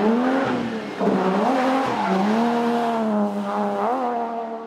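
Rally car engine revving hard under throttle, its pitch climbing and dropping several times as the driver lifts and shifts, then holding a steadier, slowly rising note.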